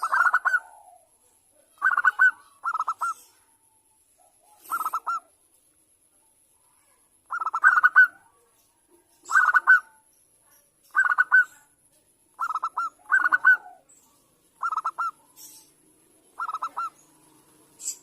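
Zebra dove (perkutut) cooing: about a dozen short phrases of rapid staccato coo notes, one to two seconds apart with a few longer gaps.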